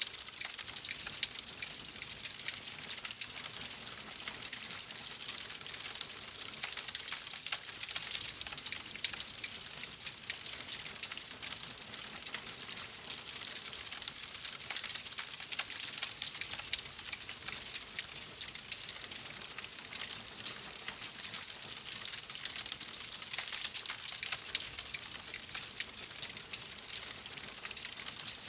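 Wood fire crackling: a steady hiss dense with small sharp pops and snaps.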